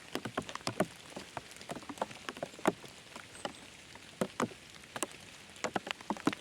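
Raindrops tapping irregularly, several sharp drips a second of varying loudness over a faint hiss of rain.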